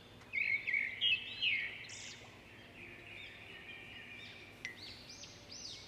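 Small birds chirping faintly: a run of quick, high, arching chirps, thicker in the first couple of seconds and again near the end.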